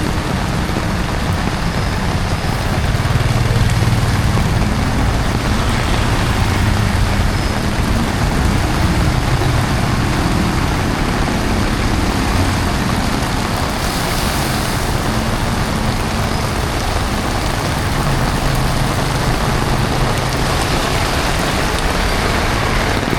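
Heavy rain falling steadily, mixed with road traffic passing on the wet street, engines rising and fading as vehicles go by.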